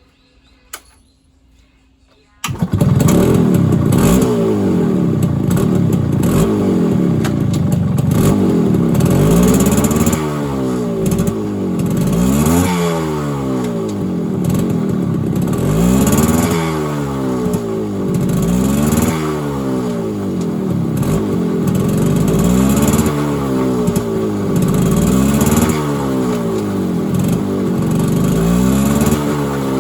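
K90 motorcycle engine bursts into running about two seconds in, then is revved hard again and again, its pitch rising and falling every three seconds or so. It is being run up through the gears at high revs to check the transmission for an abnormal noise.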